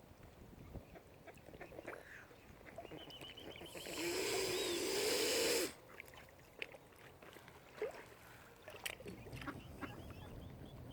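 A swan hissing once, loud and breathy, for about two seconds near the middle, with a rapid run of short bird notes just before it and faint clicks around it.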